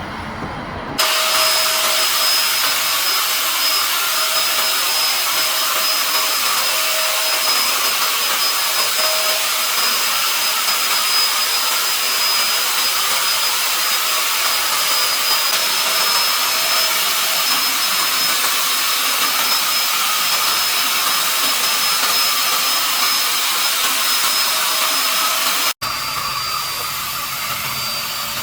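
Paint spray gun running steadily: a loud rush of air with a steady high-pitched motor whine. It cuts off abruptly near the end and a slightly quieter stretch of the same running noise follows.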